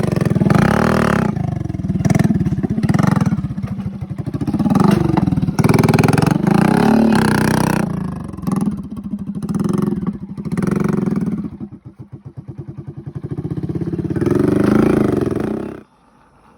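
A vehicle engine revving up and down repeatedly, its pitch rising and falling, then cutting off abruptly near the end.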